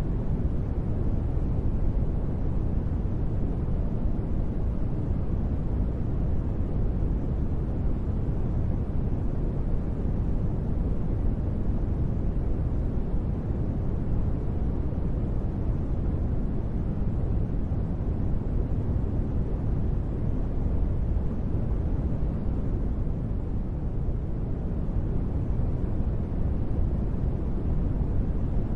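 Steady, unchanging deep rumbling noise for space ambience, heavy in the bass and dull at the top, with no events or pitch.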